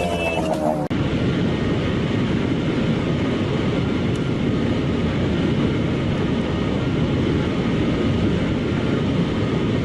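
Steady rumble and rush of a car driving fast on a motorway, with road and wind noise holding at a constant level. It begins with an abrupt cut about a second in, replacing a brief moment of voices.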